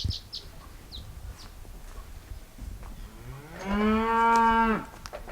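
A cow mooing once: a single long call about three seconds in, rising briefly in pitch and then held steady for over a second.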